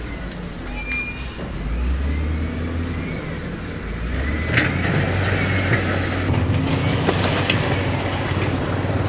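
Heavy diesel construction machinery running with a steady low hum that gets louder about halfway through, with high metallic squeals and a few sharp clanks.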